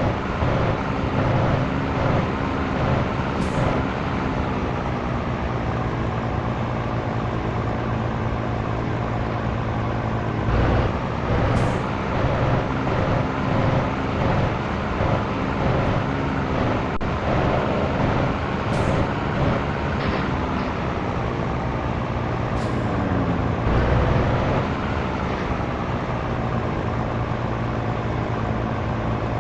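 Scania T113 truck's six-cylinder diesel engine running while driving, its pitch shifting with the road and gears, with short air hisses about four times.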